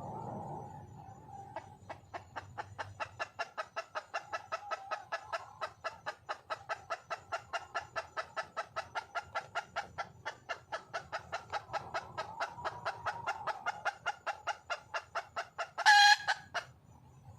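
Red junglefowl hen clucking in a fast, even series of about four clucks a second, then one loud short call near the end: a wild hen calling for a cock.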